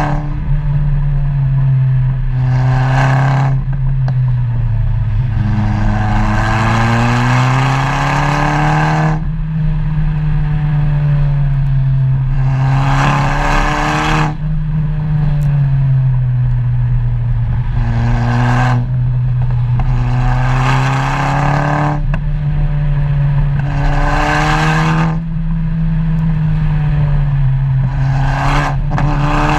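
Car engine and exhaust running along a twisty road, the engine pitch rising and falling slowly as speed changes through the bends. Every few seconds a louder rush of noise swells and fades as the car accelerates.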